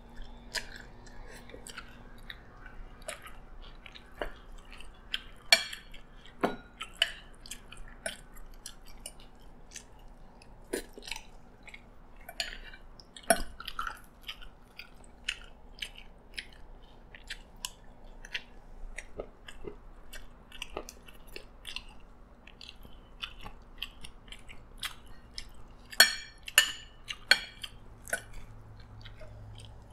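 Close-miked chewing and wet mouth sounds of a person eating nasi lemak with fried chicken, with scattered sharp clicks of a metal spoon and fork against the plate, loudest about 5 s, 13 s and 26 s in.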